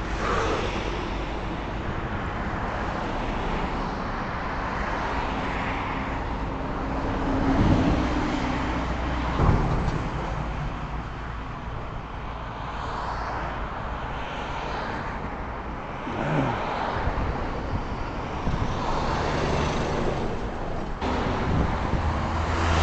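Road traffic on a car-only expressway: a steady rush of tyres and engines, with several vehicles swelling past close by, the loudest about eight and nine and a half seconds in and another about sixteen seconds in.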